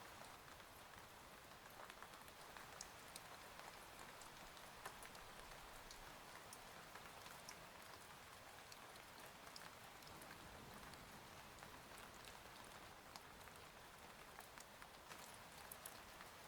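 Faint, steady rain, with scattered sharp ticks of single drops striking.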